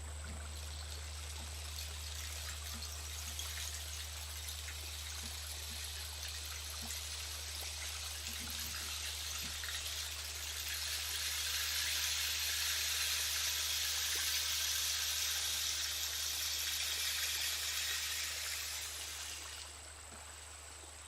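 A soft rushing, trickling hiss like rain or running water, swelling louder from about 11 seconds in and falling away shortly before the end, over a steady low hum.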